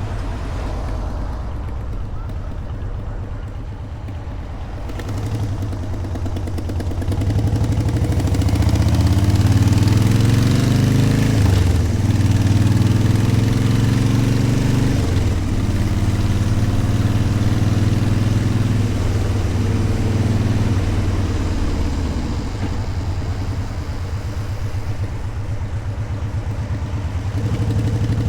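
Motorcycle engine pulling away and accelerating through the gears, its pitch climbing and dropping back at each of two upshifts, then running at a steady cruise with wind rushing past. Near the end the engine settles lower as the bike eases off.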